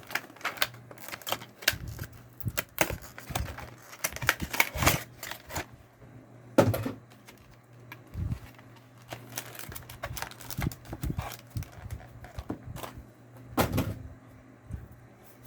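Irregular clicks, taps and rustles of trading cards and their packaging being handled, flipped and shuffled on a table.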